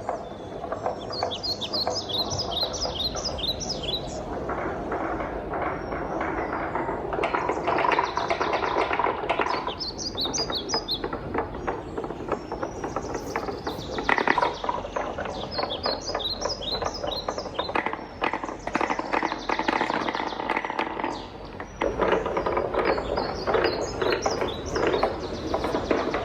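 Wooden balls rolling and clattering along a wooden marble-run track, a continuous dense rattle of small knocks. Every few seconds a short run of bright, high ringing ticks stands out above it.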